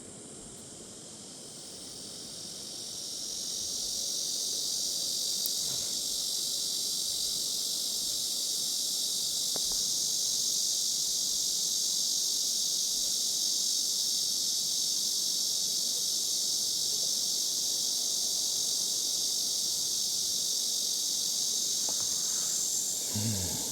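Summer insects buzzing in a dense, steady chorus, swelling over the first few seconds and then holding at a high pitch.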